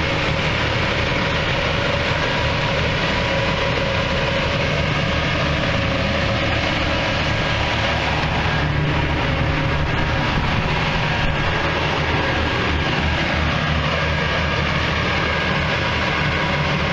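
Inland cargo ship's diesel engine running steadily with a deep hum.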